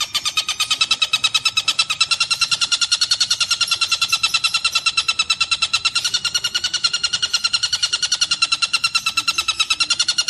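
Tengkek buto, a large kingfisher, calling in one continuous rapid rattling trill of many short notes a second, steady in pitch and loudness.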